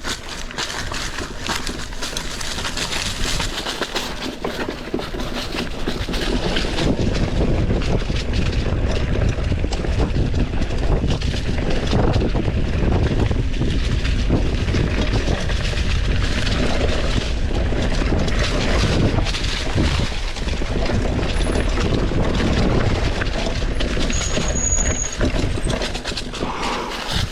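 Mountain bike being ridden over a rough, rocky trail: a continuous clatter of tyres on stones and the bike rattling, with a low rumble underneath. It gets louder about six seconds in.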